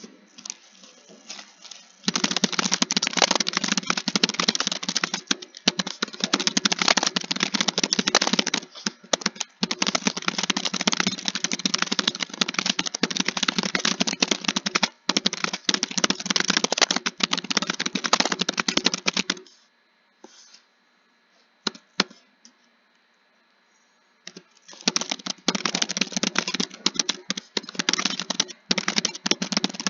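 Fast typing on a computer keyboard: a dense, continuous stream of key clicks. It breaks off just past the middle for about five seconds, with only a few isolated keystrokes, then resumes at full speed.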